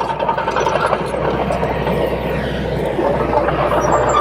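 Komatsu D30P bulldozer's diesel engine running at a fairly steady level.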